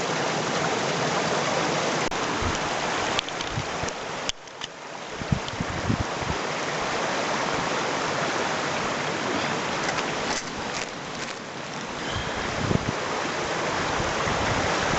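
A river rushing in a steady, dense wash of water noise, dipping briefly about four seconds in, with a few low knocks of handling or footsteps.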